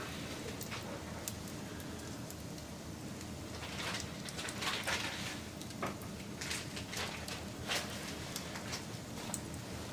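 Campfire crackling: burning wood giving off a steady hiss with irregular sharp pops and snaps, busiest in the middle.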